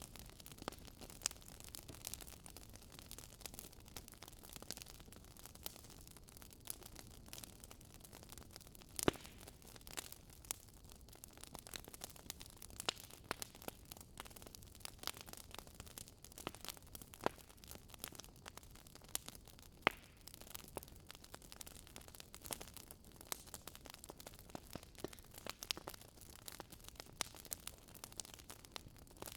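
Wood fire burning in a fireplace, crackling: irregular sharp pops and snaps over a faint steady hiss, with a louder pop about nine seconds in and another about twenty seconds in.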